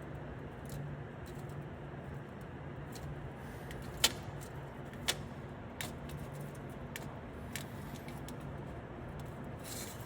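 Wild turkey pecking its beak against a glass door: a few sharp taps, the loudest about four seconds in and another a second later, then several lighter ones, over a steady low hum.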